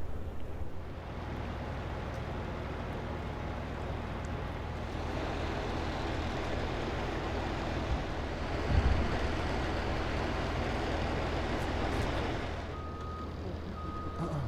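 An engine running steadily with a low hum, louder through the middle. Near the end a repeating electronic beep starts, about once a second.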